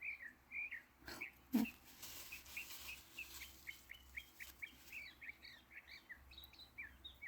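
Small birds chirping outdoors in quick, short repeated notes, with a single sharp tap about one and a half seconds in.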